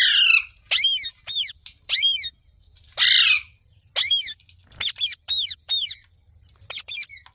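Ringneck parrot calling: a string of short, sharp calls in small clusters, with two louder, harsher screeches, one at the start and one about three seconds in.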